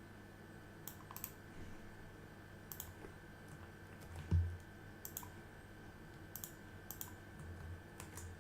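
Computer keyboard keys clicking sparsely, in pairs and small groups, as commands are typed, with a low dull thump about four seconds in. A faint steady hum sits underneath.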